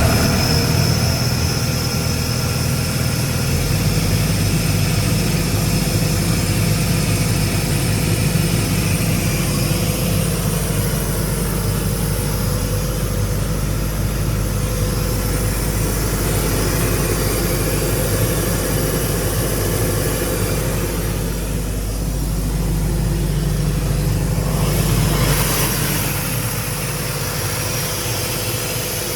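The four-cylinder Cummins F3.8 diesel of a Bobcat PA 10 12 V mobile air compressor, running steadily just after starting. Its note changes about three and a half seconds in and again near the end.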